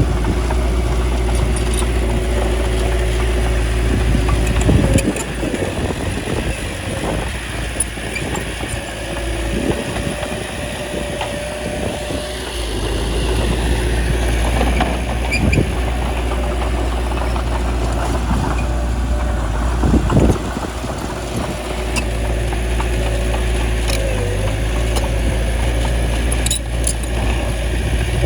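Bulldozer's diesel engine running steadily, with two brief louder surges about 5 and 20 seconds in, and scattered short knocks.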